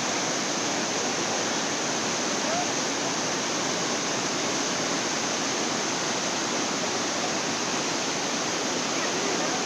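Waterfall rushing, a steady, even noise of falling water that does not change.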